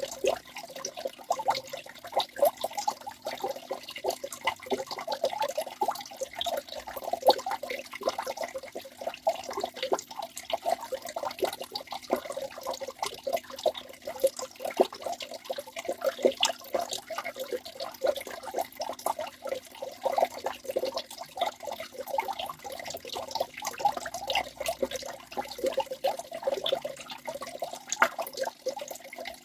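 Waterfall splashing steadily: a close, choppy patter of many small splashes that never lets up.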